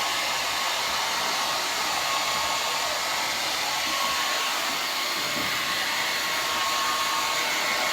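Handheld hair dryer running steadily, blowing air through long hair on a round brush.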